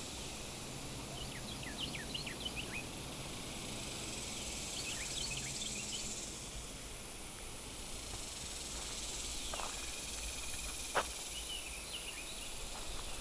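Steady high-pitched drone of insects in rural brushland, with a few clusters of short, high chirps.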